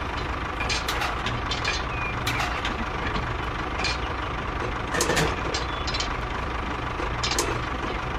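Miniature tractor running steadily, a low even motor hum with scattered clicks and knocks.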